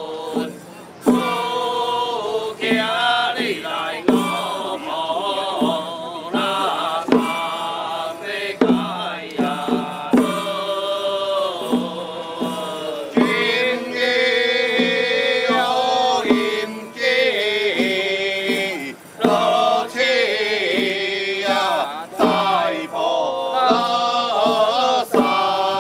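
Ritual chanting with music and scattered percussion strokes.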